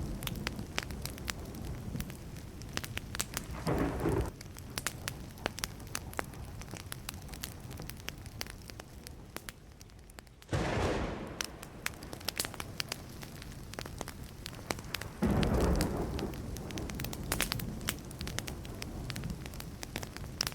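Burning wood fire crackling, with frequent sharp pops and snaps. Low thunder rumbles swell in several times: briefly about 4 s in, suddenly at about 10 seconds in, and again at about 15 seconds in.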